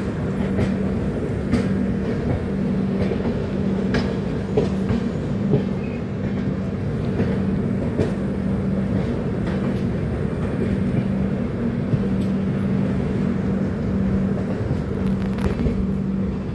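Train running along the track: a steady rumble with a hum that comes and goes, and sharp clicks at irregular intervals as the wheels pass over the rails.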